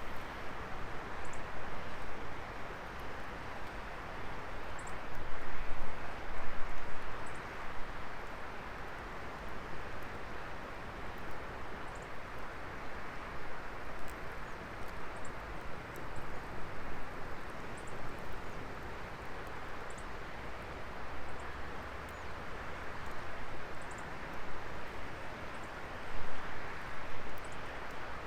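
Wood fire burning: a steady rushing hiss with small crackles and pops scattered through it, swelling louder a few times.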